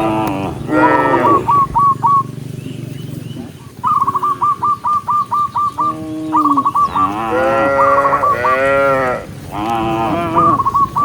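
Cattle mooing, several long calls one after another, some overlapping. Between the moos come quick runs of short, high chirps, about five or six a second.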